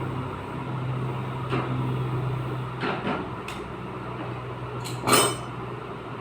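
Hammer blows on sheet-metal car body panels during dent repair: a handful of separate, irregular strikes, the loudest near the end ringing metallically. A steady low machine hum runs underneath.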